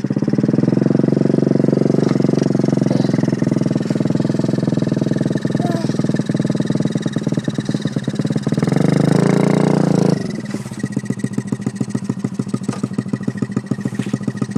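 2003 Honda four-stroke dirt bike engine running hard under throttle, revving higher near the ten-second mark. It then drops suddenly to a lower, evenly pulsing idle.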